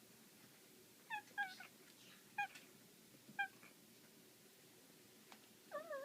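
Domestic cat making short chirping calls: a quick pair about a second in, two more single chirps, then a longer wavering call near the end.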